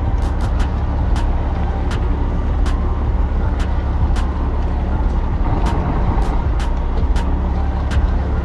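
A fishing boat's engine running steadily underway, a deep even drone, with irregular sharp ticks and knocks scattered over it.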